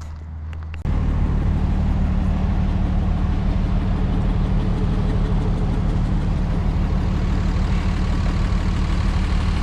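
Truck engine running steadily with road noise; the sound jumps suddenly much louder a little under a second in.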